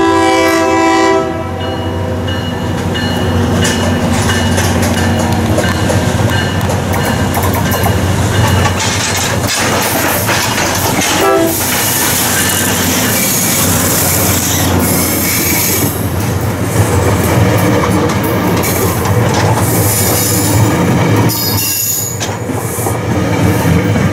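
A train horn sounds for about a second, then a train runs past close by with continuous wheel-and-rail noise and clatter. A short horn blast comes about eleven seconds in.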